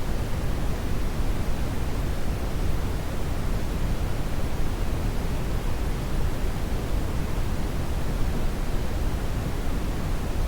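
Brown noise: a steady, even hiss-like rumble weighted toward the low end, with no tones or events.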